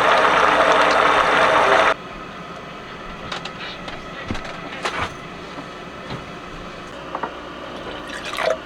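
Running water, a steady rush that cuts off suddenly about two seconds in, followed by a few light knocks and clicks.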